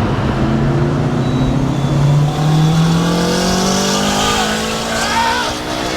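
Turbocharged 2007 Honda Civic Si K20 four-cylinder accelerating hard in gear, heard from inside the car. The engine note climbs steadily as the turbo builds boost, with a rising hiss joining it about halfway through.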